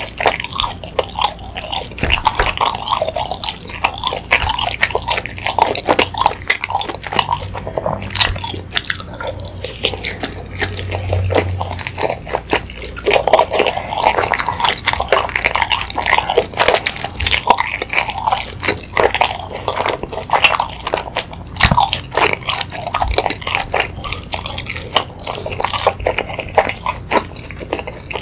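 Close-miked chewing of sausage and chewy rice cakes (sotteok) in sauce: dense, irregular wet clicks and smacks of the mouth.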